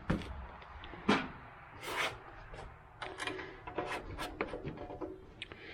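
A series of sharp knocks and clicks from handling an oil bottle and the dipstick or fill cap on a riding lawn tractor's engine: a few single knocks, then a quicker cluster of clicks.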